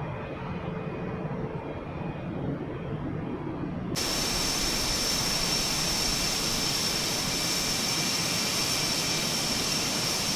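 F/A-18 fighter jet engines running, a steady rush of jet noise; about four seconds in it abruptly becomes louder and brighter, with a steady high-pitched whine over the roar.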